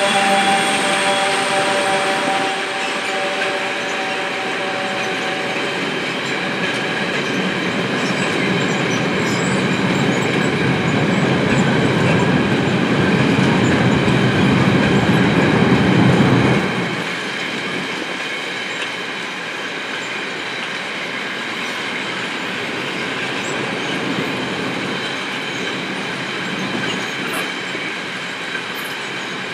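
Freight train of covered sliding-wall wagons rolling past behind its Fenniarail diesel locomotive, whose engine fades away in the first few seconds. Steady wheel-on-rail rumble with clacking over the rail joints and a thin high squeal. The rumble swells, then drops suddenly about two-thirds of the way through.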